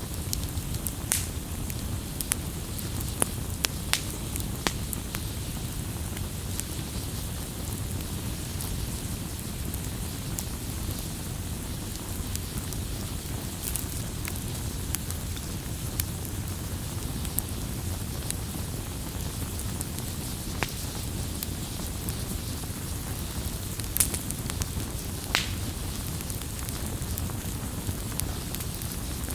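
Wood fire burning: a low steady rumble of flames with scattered sharp crackles and pops.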